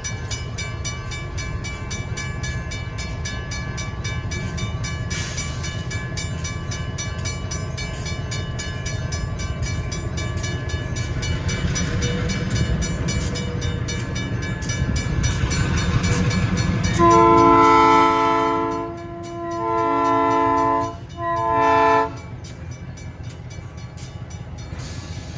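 Locomotive engine running with a steady low rumble and a fine regular ticking. About two-thirds of the way in, its multi-chime air horn sounds three blasts: a long one, a slightly shorter one and a short one.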